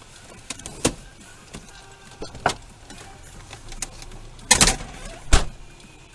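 A series of short sharp knocks or bangs, four main ones over a faint steady background; the loudest come as a close double about four and a half seconds in and a single hit soon after.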